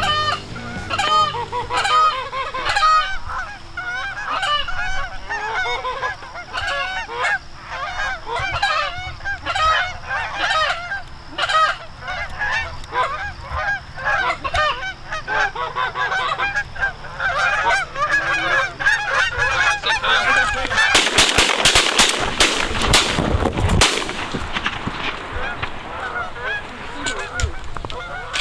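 A flock of Canada geese honking, many overlapping calls without a break. About two-thirds of the way through, a loud rough rushing noise covers the calls for about three seconds.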